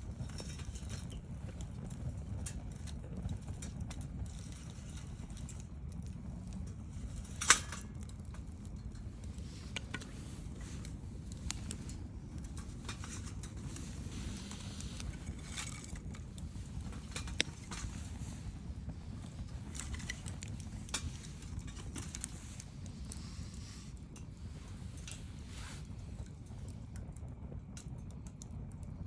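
Wood campfire crackling, with scattered small pops and one sharp loud pop about seven seconds in, over a steady low rumble.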